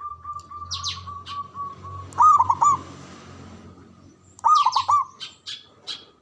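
Zebra dove (perkutut) singing. A long drawn-out coo fades at about 2 seconds, and a run of three or four short clipped coos follows, then comes again at about 4.5 seconds. Brief high chirps sound over the top.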